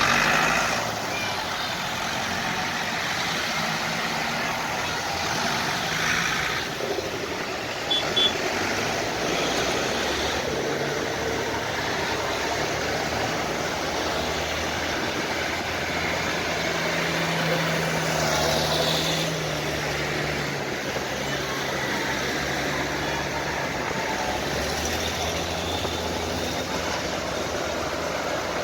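Tractor engines running steadily, with a continuous low hum whose pitch shifts a little and is strongest about two-thirds of the way in.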